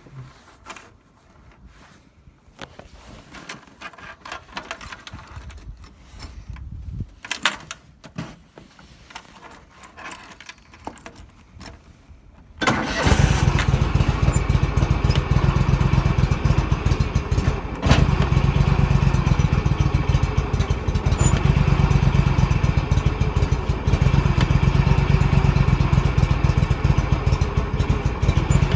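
Simplicity Prestige garden tractor's engine on a cold start: faint clicks and rattles at first, then the engine fires abruptly a little before halfway through and settles into a steady, loud run.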